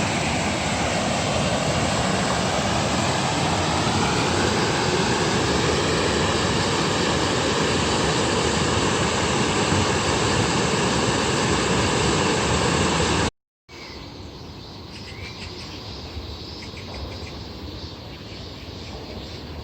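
A low-flying aircraft passes overhead, a loud steady rushing drone whose pitch slowly bends as it goes over. It cuts off abruptly about 13 seconds in, leaving insects chirping.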